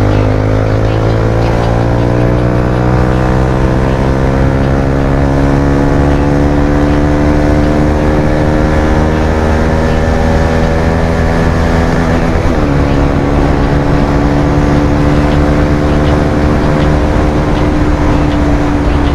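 Bajaj Pulsar 220F single-cylinder engine through an aftermarket Akrapovic exhaust, accelerating hard at speed: its pitch climbs slowly for about twelve seconds, breaks briefly at a gear change, then holds high and steady.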